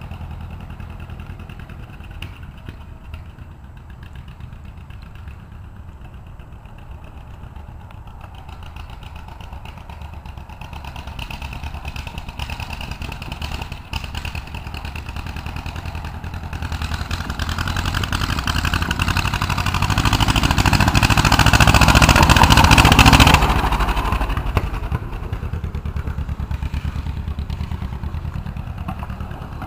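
Homemade tractor's engine running on a test drive, growing louder over several seconds to a peak about two-thirds of the way in, then dropping off suddenly and carrying on more quietly.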